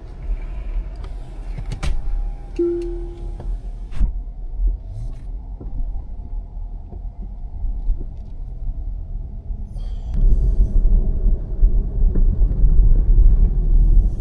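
Car on the move: a low road rumble that grows louder about ten seconds in, with a short steady tone about three seconds in and a few light clicks.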